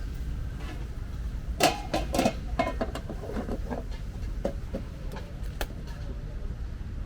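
Metal cooking utensils clanking and knocking at a street food stall's wok station, in short irregular strikes bunched about one and a half to two and a half seconds in, over a steady low rumble.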